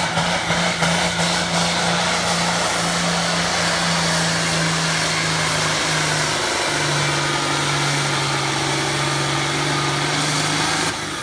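Farm tractor engine running hard under load, pulling the weighted sled. Its pitch steps down a little about six seconds in.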